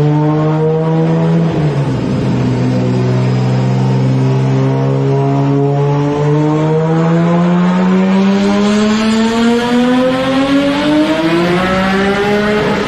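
Nissan 370Z's 3.7-litre V6 exhaust under load. The engine note holds steady, dips briefly about two seconds in, then climbs steadily in pitch through the second half as the car accelerates, dropping again at the very end.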